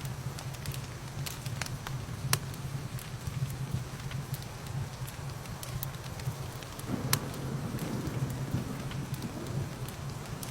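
Wood fire crackling with scattered sharp pops over steady rain. There are two louder pops, about two seconds in and about seven seconds in.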